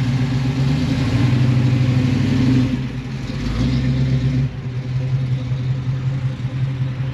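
A car engine running with a low, pulsing note. It is loudest for the first few seconds, eases off a little under three seconds in, then runs steadily.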